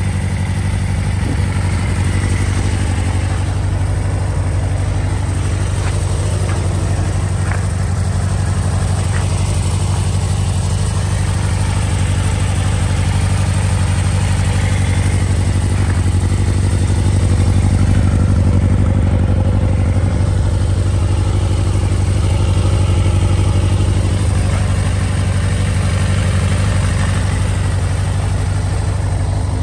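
1992 Suzuki Bandit 400's water-cooled four-stroke inline-four engine idling steadily, swelling slightly for a few seconds about midway. Its seller describes the engine as in good running order.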